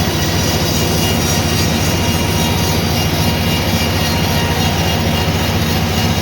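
Sawmill machinery running with a loud, steady mechanical drone that does not change.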